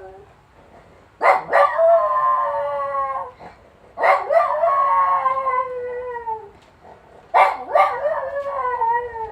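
Jack Russell terrier howling, set off by an ambulance siren: three long howls a few seconds apart, each starting with a sharp yelp and sliding slowly down in pitch.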